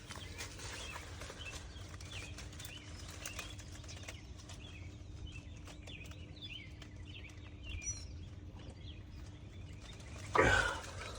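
Small birds chirping over a low, steady outdoor rumble, with a louder burst of noise shortly before the end.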